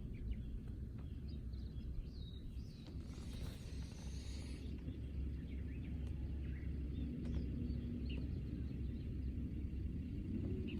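Outdoor ambience: a steady low rumble with scattered short bird chirps, and a brief rise of hiss a few seconds in.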